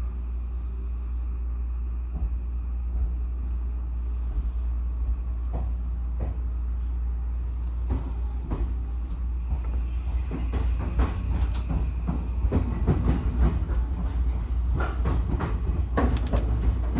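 Odakyu 1000-series electric train running, heard from inside, with a steady low rumble. From about halfway through, the wheels click and clack over rail joints more and more often and louder.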